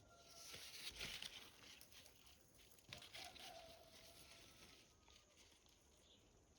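Faint rural village ambience: scattered rustling and light patter, with a distant rooster crowing once, drawn out for about a second, about three seconds in.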